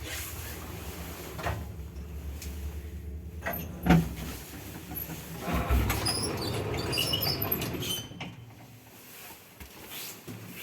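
Old 1981 MLZ passenger lift: a steady low hum from the drive machinery, then a sharp clunk about four seconds in. A heavy thump follows, then a few seconds of rattling with high squeaks, the sound of doors or mechanism moving, before it quietens.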